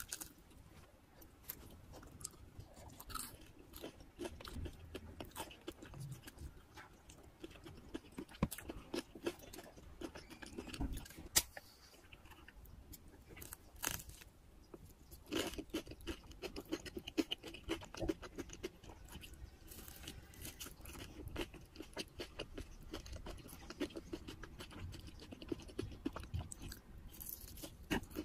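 Crisp crunching and chewing of a crumb-coated cheese stick, eaten close to the microphone: many small crackles as the crust breaks, with wet chewing between bites, and denser spells of crunching now and then.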